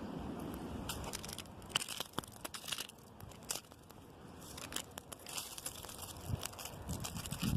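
Wind gusting through tree branches, with scattered dry crackles and ticks from the moving twigs and leaves. A low rumble of wind on the microphone eases about a second in and picks up again near the end.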